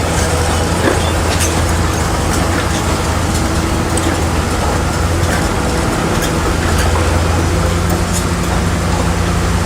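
Bulldozer's diesel engine running steadily under load, with the clanking and squeaking of its steel tracks.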